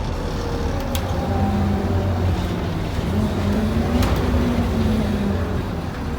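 Scania N230UD double-decker bus heard from on board, its engine and driveline running under way with a steady low drone. A tone rises slightly in pitch in the middle, and there are two sharp rattles about one and four seconds in.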